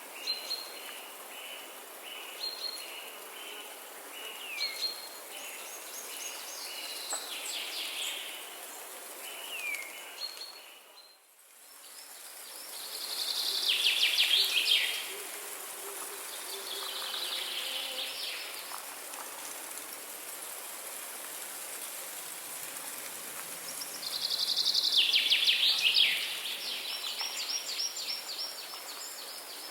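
Songbirds singing over a steady hiss of outdoor ambience. In the first ten seconds there are repeated short whistled notes, some gliding down. The sound dips briefly about eleven seconds in, then loud rapid trills come three times, the loudest near the end.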